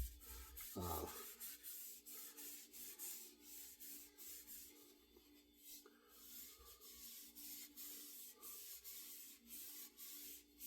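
Faint, irregular rubbing and scuffing strokes on a wooden ash axe handle, with one soft knock about a second in.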